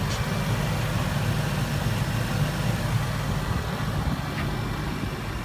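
Steady low idle of a 2015 Range Rover Supercharged's 5.0-litre supercharged V8.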